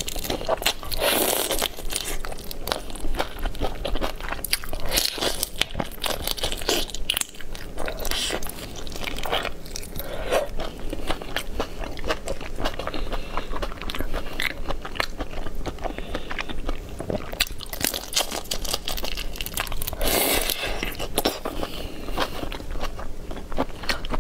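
Close-miked biting and chewing of raw whole shrimp, shell and all: a dense, irregular run of sharp crackly clicks with louder clusters now and then.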